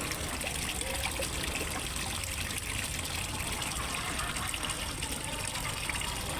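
Water trickling and splashing steadily into a fish pond, an even, unbroken rush.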